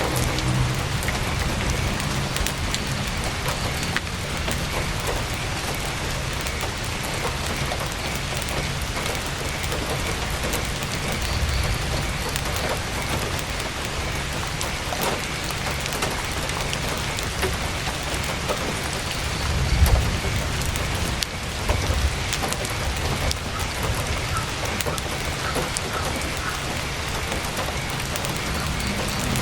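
Heavy rain pattering steadily on a tent, with scattered sharp crackles from a campfire. A brief low rumble comes about twenty seconds in.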